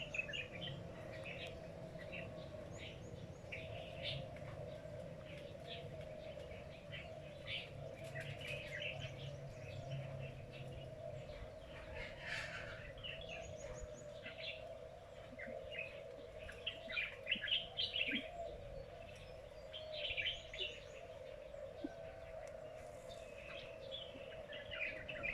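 Small birds chirping in short, clustered bursts of high calls, repeated throughout, over a steady low hum.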